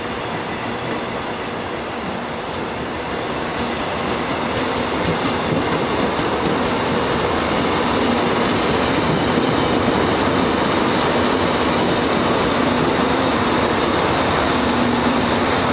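Saemaeul-ho diesel multiple-unit train running past, a dense rumble of wheels on rail with clacking over the joints and a steady low hum. It grows louder over the first several seconds, then holds.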